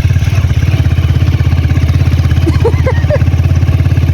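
Motorcycle engine running steadily at low revs, heard close from the bike, with a rapid even pulsing.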